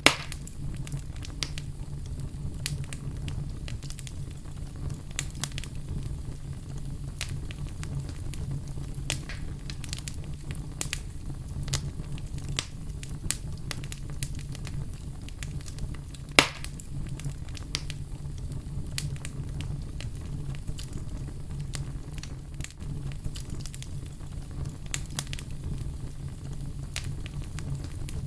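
Wood fire burning with a steady low rumble and frequent sharp crackles and pops, two louder pops standing out, one at the very start and one about sixteen seconds in.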